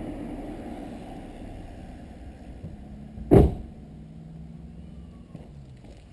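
VW 2.8 VR6 24V engine with a non-resonated Milltek exhaust, running with a low rumble that slowly fades. A single loud thump comes about three and a half seconds in, followed by a steady low hum.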